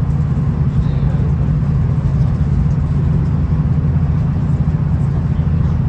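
V/Line VLocity diesel railcar running steadily, heard from inside the carriage as an even, low engine drone and rumble.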